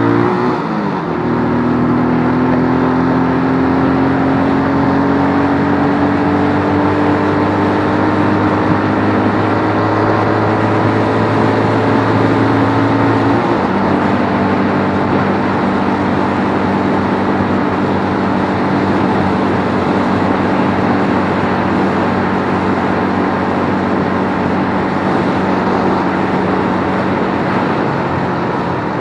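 Keeway RKF125 motorcycle's single-cylinder 125 cc engine running under way. Its pitch drops just after the start, climbs slowly for about thirteen seconds, drops again, then holds steady.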